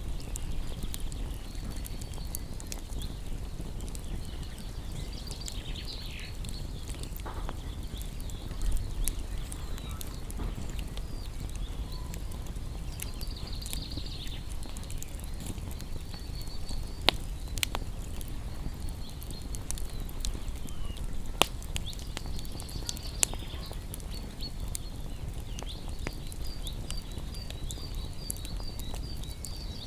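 Wood bonfire crackling, with scattered sharp pops over a low rumble, while small songbirds chirp and twitter in short bursts, ending in a quick run of repeated chirps.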